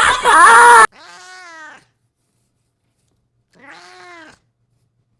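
A loud voice over music cuts off abruptly just under a second in, then a cat meows twice, each call rising and falling in pitch, with a pause of about two seconds between them.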